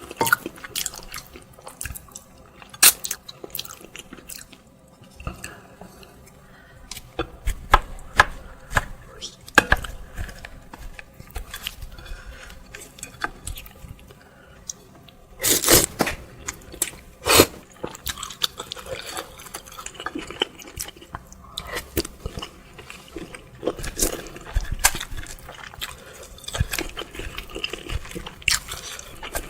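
Close-miked eating sounds of meatball soup and spicy chicken feet: irregular chewing, crunching and wet mouth clicks, with a few louder bursts about halfway through.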